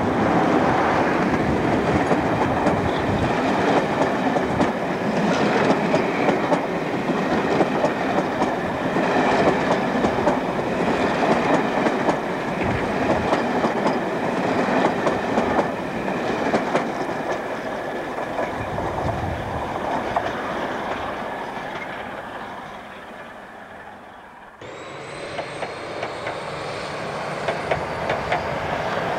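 A Class 45 diesel locomotive and its loco-hauled coaches passing close by, the wheels clicking and rattling over the rail joints, the sound fading slowly as the train draws away. About 24 seconds in, the sound cuts abruptly to an InterCity 125 HST passing further off, growing louder toward the end.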